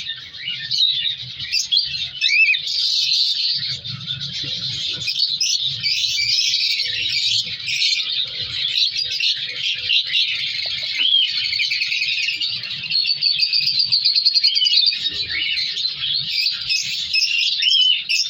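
Several cockatiels chirping and calling over one another in a dense, continuous chatter, with short calls that rise and fall in pitch and a quick rapid trill a little past the middle.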